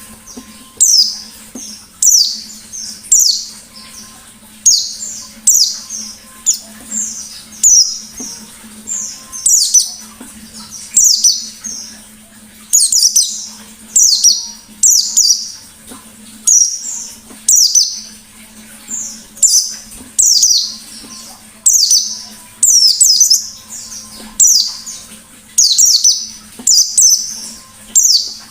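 White-eye (pleci) singing its rapid 'nembak' song: loud, high-pitched bursts of quick downward-sweeping notes, one phrase about every second.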